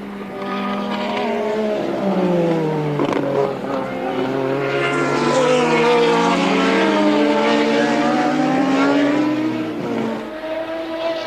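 Several 1983 Formula One race cars passing close together, their engine notes overlapping, each pitch rising and then falling as it goes by. The sound builds in the middle and fades near the end.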